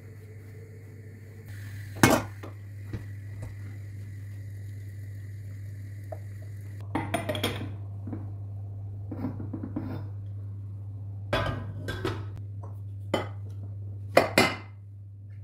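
Dishes and cutlery clinking and knocking in scattered bursts, the loudest strike about two seconds in and a quick cluster near the end, over a steady low hum.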